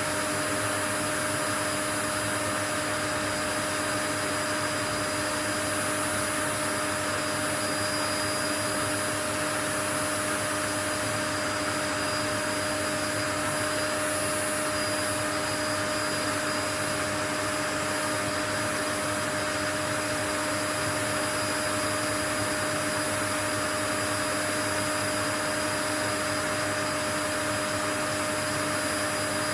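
Steady white noise: an unchanging, even hiss with a few faint steady tones running through it.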